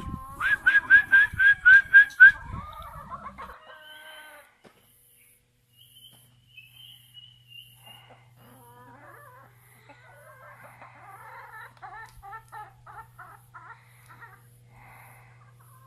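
Chickens clucking: a run of about eight loud, quick clucks in the first two seconds, then softer, busier clucking from about nine seconds in. A steady low hum sits under the later part.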